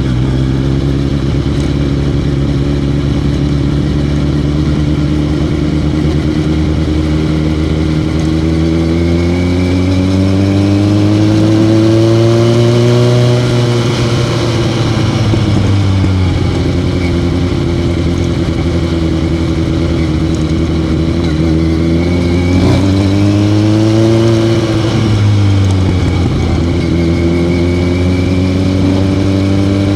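Motorcycle engine running under way, its note rising slowly twice as it speeds up, about a third of the way in and again past the middle, each time falling back as the throttle eases.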